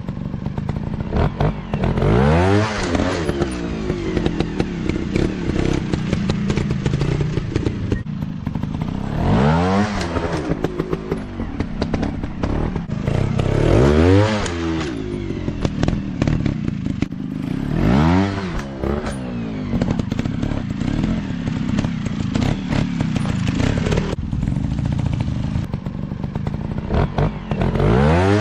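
Dirt bike engines revving. The pitch rises and falls in repeated surges every four to five seconds, over a steady engine drone with clattering knocks.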